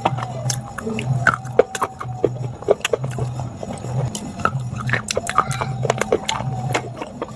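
Crisp crunching bites and chewing of a hard, brittle item, heard as many sharp irregular cracks, over soft background music with a steady low beat.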